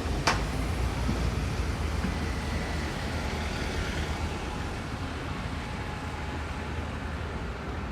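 City street traffic: a low vehicle rumble that slowly fades, with one sharp click just after the start.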